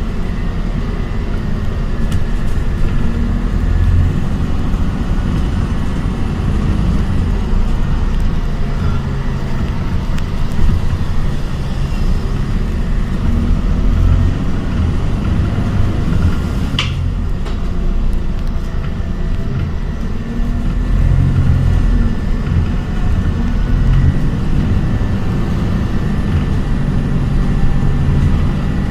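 ADL Enviro 400 hybrid double-decker bus on the move, heard from on board: a continuous low rumble of its diesel-electric drivetrain and the road that swells and eases, with a faint steady high tone. One sharp click sounds about 17 seconds in.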